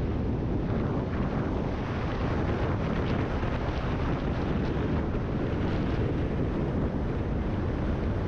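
Steady wind rush and buffeting on the microphone of a GoPro on a Kawasaki ZX-10R sport motorcycle at riding speed, with the bike's running sound blended into the noise.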